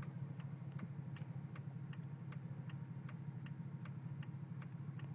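Steady, regular ticking, about two or three clicks a second, over a low steady hum inside a moving vehicle: a turn-signal indicator clicking while the engine runs.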